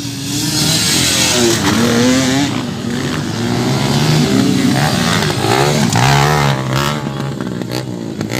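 Several four-stroke motocross bikes racing, their engines revving up and down through the gears as they pass, with overlapping engine notes rising and falling every second or so.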